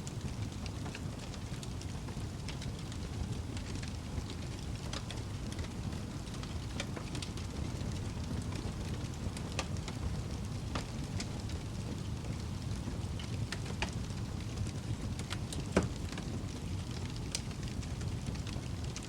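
Wood fire burning in a fireplace: a steady low rumble of flames with frequent small crackles and one louder pop about sixteen seconds in.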